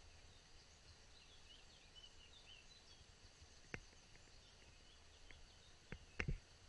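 Very quiet outdoor ambience with faint small-bird chirps, and a few sharp clicks, one about halfway through and a cluster near the end.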